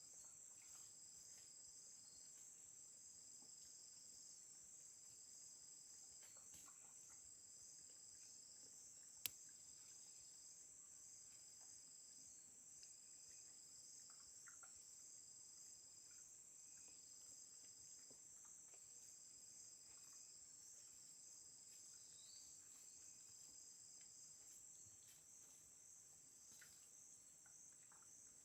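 Faint chorus of crickets and other insects: a continuous high-pitched trill with a second, lower trill broken into repeated phrases of about a second each. A single sharp click about nine seconds in.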